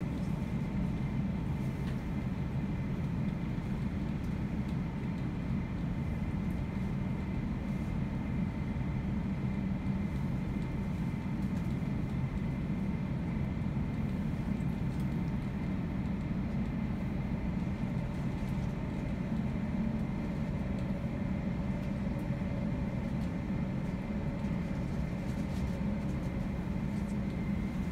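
Cabin noise inside a moving SJ X2000 high-speed electric train: a steady low rumble of the running train, with a faint steady high whine over it.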